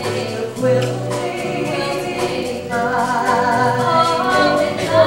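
A female voice singing a slow ballad with held notes over instrumental accompaniment, with what sounds like backing vocals.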